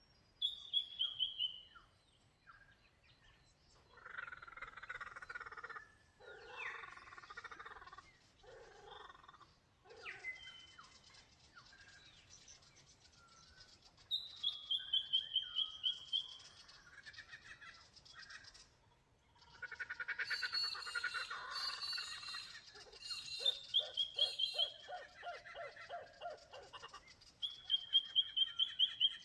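Several Australian wild birds singing in a morning chorus: one bird repeats a short, high, falling trill about four times, while others give lower, rougher chattering calls in between.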